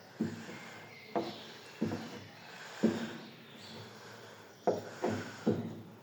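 Light, irregular knocks on wood, about seven in six seconds, each with a brief ring. They come as sawdust filler is put over a glued crack in a wooden door.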